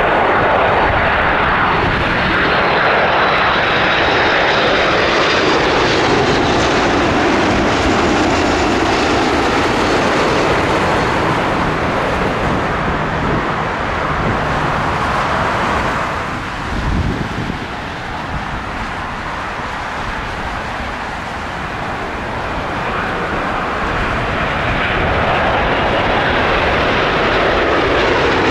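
Jet airliner engines roaring as the aircraft passes low overhead, with a sweeping, swirling pitch; the roar eases a little past midway and builds again near the end.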